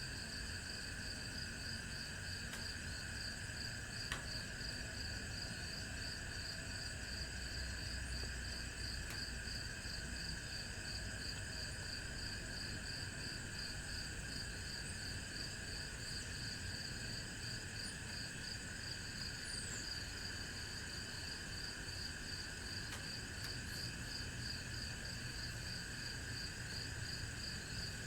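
Chorus of insects, crickets among them, calling steadily with an even rapid pulsing, over a low background rumble. One faint click about four seconds in.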